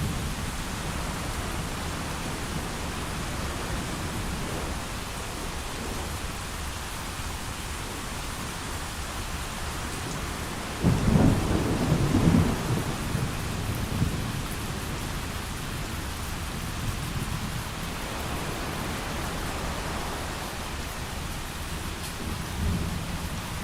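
Steady heavy rain falling. About halfway through, a clap of thunder breaks out suddenly and rolls on for a few seconds before fading, with more low thunder rumbling near the end.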